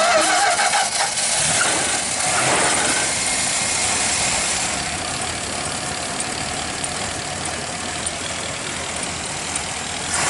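1966 Dodge Coronet's Poly 318 cubic-inch V8 idling steadily, heard close up at the open engine bay.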